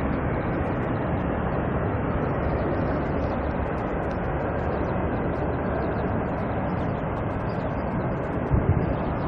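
Steady, even noise of a jet airliner's engines at the airport, with a couple of short low thumps near the end.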